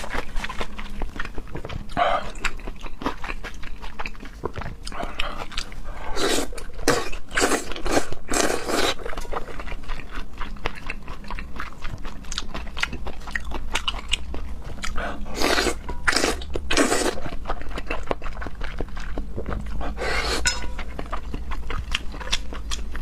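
Close-miked eating: steady chewing with many small crunches and clicks, and louder bunched stretches of biting and chewing about six, fifteen and twenty seconds in.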